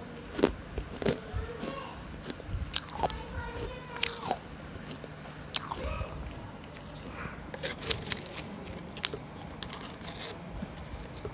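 Close-up crunching as a hard piece of food is bitten, with chewing: sharp, irregular crunches scattered throughout.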